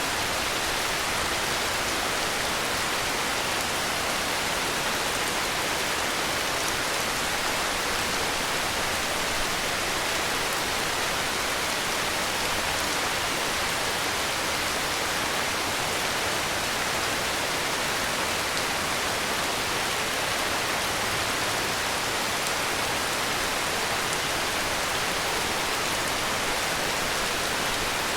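Heavy rain falling steadily: an even, dense hiss with no single drops, thunder or other sounds standing out.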